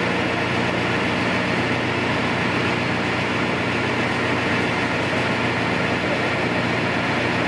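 Heavy diesel engine of construction machinery running steadily at a constant pitch and level.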